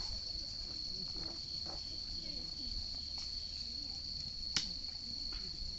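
Crickets chirring in a steady high-pitched drone, with a single sharp crack about four and a half seconds in.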